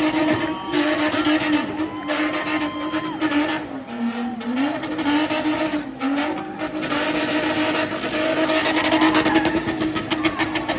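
Spinning car's engine held at high revs, dipping briefly a few seconds in and climbing straight back, over a steady hiss of spinning tyres.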